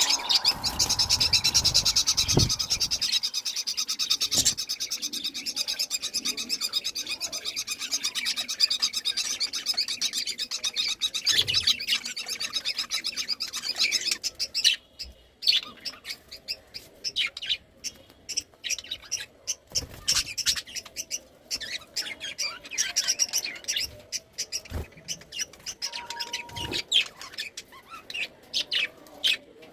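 Several budgerigars chirping and chattering, a dense continuous chatter for about the first half, then thinning to scattered separate chirps with short pauses.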